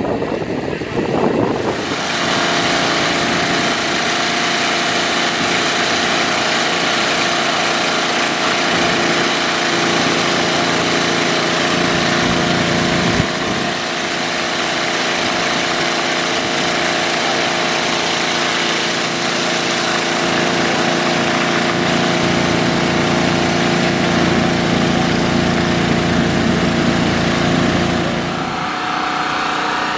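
A small engine runs steadily at one speed under a broad hiss of rushing air or spray. It starts about two seconds in and stops shortly before the end, with one short knock about halfway through.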